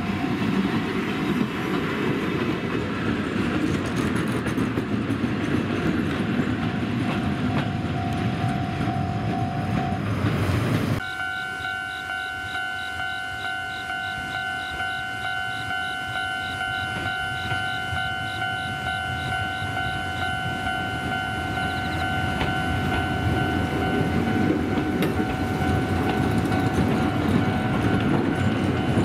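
Izuhakone Railway's old Kode 165 electric rail-transport car rolling past over the rails while a level-crossing alarm rings with a steady electronic tone. The train noise drops abruptly about eleven seconds in and builds back up toward the end.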